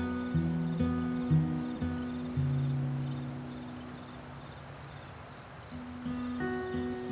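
Crickets chirping in a fast, even pulsing rhythm without pause, over soft background music of slow, sustained low notes.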